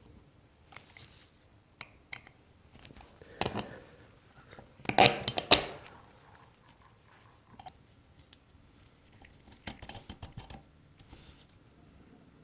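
Scattered light clicks and knocks of objects being handled, with a louder short clatter about five seconds in.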